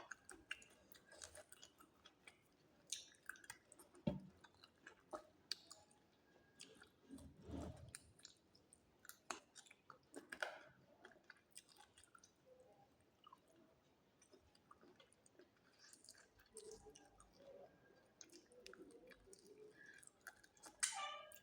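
Close-miked chewing of a person eating, with soft wet mouth clicks and smacks and a few heavier bites. Near the very end a cat starts to meow.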